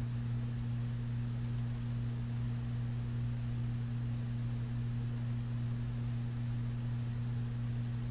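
Steady low electrical hum over background hiss, with a couple of faint ticks.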